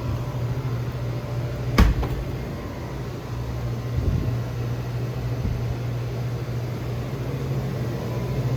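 Steady low mechanical hum of a grocery store's background machinery, with one sharp knock about two seconds in and a couple of softer thumps later.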